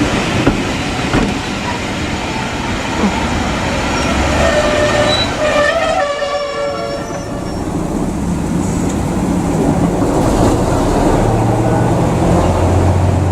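A train running past with continuous rail and wheel noise. A horn sounds briefly about six seconds in, and a steady low engine hum comes up near the end.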